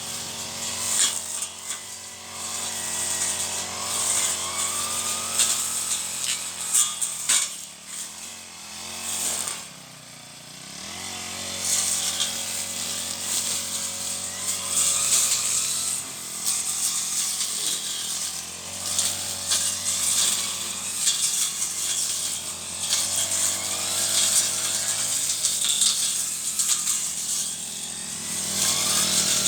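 Petrol brush cutter engine running at working speed while slashing weeds, the throttle rising and falling. Twice, about a third of the way in, it briefly eases off before picking up again.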